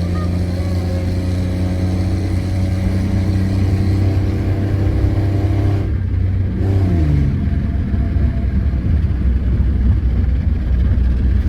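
Car engine running at steady revs. About six seconds in the note breaks off briefly, then the revs fall away, and a rougher low engine drone follows.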